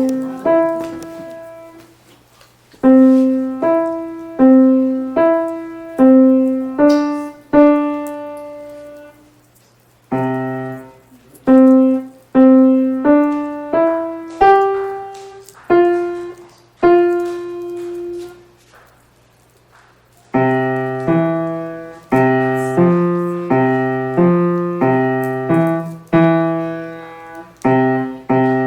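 A child playing a simple, slow melody on the piano, one struck note at a time with short pauses between phrases; from about two-thirds of the way in a lower accompaniment joins the tune.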